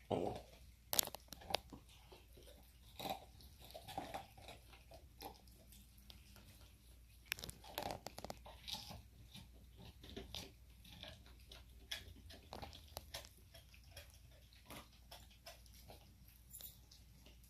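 Dog gnawing a smoked chew bone: irregular crunching and scraping of teeth on bone, with sharper cracks near the start and about eight seconds in.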